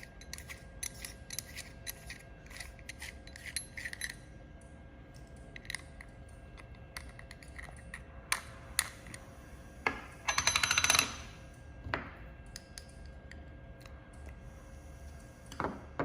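Small metal parts of a jewelry laser welder's lens holder being handled: quick light clicks and scraping for the first few seconds, then a few sharp clicks and a short metallic rattle about ten seconds in, as the protective lens and its retaining screw are worked out.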